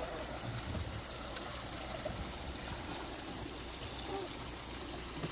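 Water flowing and trickling steadily, with faint voices in the background.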